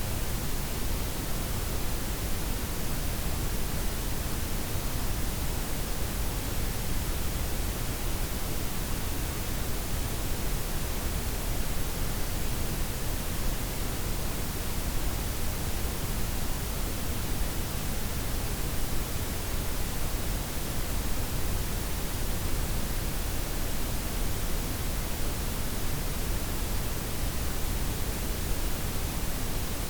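Synthetic noise blend of white, pink and brown noise, a steady even hiss with a deep low rumble underneath, unchanging throughout.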